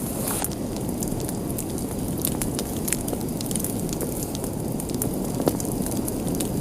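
Wood fire burning with a steady low rush of flames and frequent sharp crackles and pops, one louder pop near the end.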